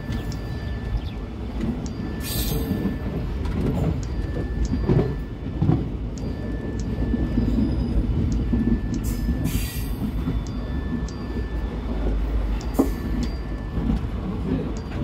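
Passenger train running on the rails: a steady rumble of the coaches and wheels, with a few short sharp knocks and two brief hissing surges, one about two seconds in and one near halfway.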